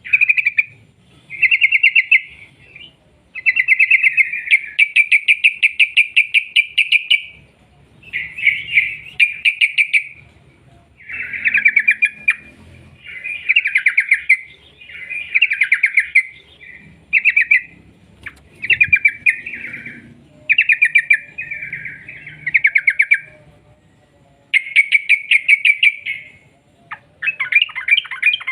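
Yellow-vented bulbul (trucukan) singing in long, rapid chattering phrases of fast repeated notes, each burst one to four seconds long with short pauses between. This is the long 'ropel' song used to lure other bulbuls into calling.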